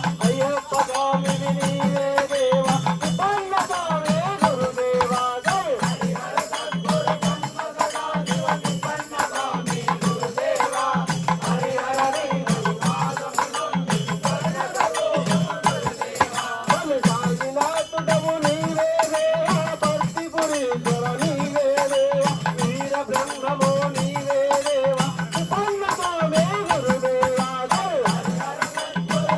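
Devotional bhajan music: a wavering melody over a steady low drum beat of about one stroke a second, with jingling rattles or cymbals throughout.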